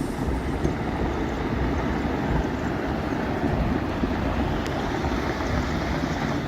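Steady, rough rushing rumble with wind buffeting the microphone, the raw outdoor sound of disaster footage.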